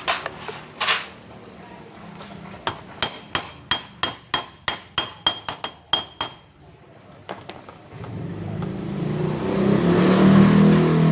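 A quick run of metallic clicks, about four a second with a slight ring, lasting a few seconds. About three seconds later a small scooter engine starts up and runs, growing louder toward the end.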